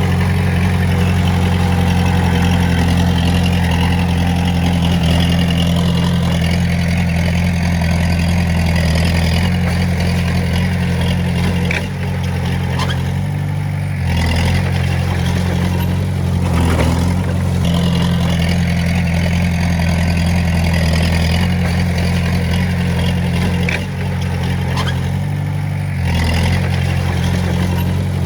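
Diesel engine of a Komatsu D20A bulldozer running steadily under load while pushing stone. The engine note shifts and dips briefly about twelve seconds in and again near the end.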